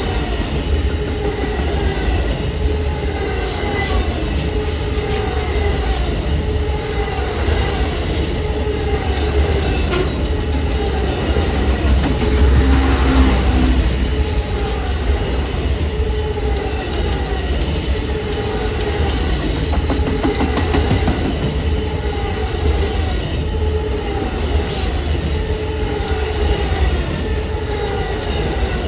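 Railroad cars rolling past with a steady rumble and clicking of wheels over the rails, and a falling wheel squeal that repeats about once a second. The rumble swells about halfway through.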